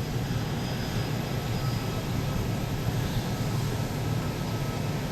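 Embraer 190 jet airliner's engines running with a steady rumble and a thin high whine.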